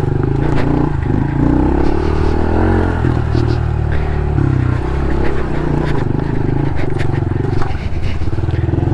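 Honda CRF110 pit bike's 110cc single-cylinder four-stroke engine running under load on rough trail, its revs rising and falling with the throttle, with scattered clattering knocks from the bike over rocks.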